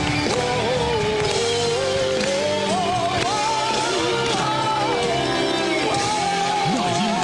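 A pop-rock song: a voice carrying a slow melody in long, wavering notes over band accompaniment with guitar.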